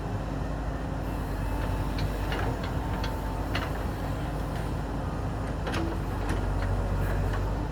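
JCB 3DX backhoe loader's diesel engine running steadily under work, with scattered sharp clinks and knocks from the digging gear and stones, more of them in the second half.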